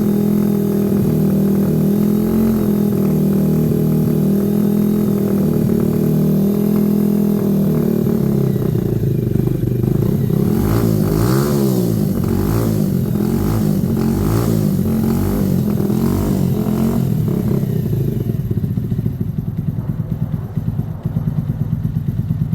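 Herald motorcycle engine running steadily, then revved up and down repeatedly from about eight seconds in, settling back to a lower idle near the end. The freshly finished engine sounds fine to its restorer.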